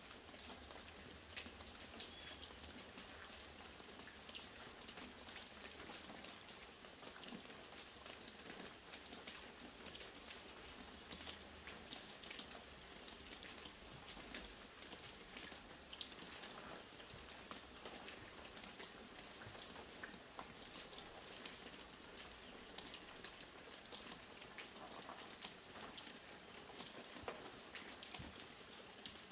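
Light rain falling, with many small drops ticking steadily throughout.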